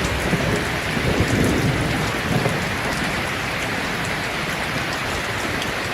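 Steady rain falling, with a low rolling rumble of thunder under it in the first half that fades to an even hiss of rain.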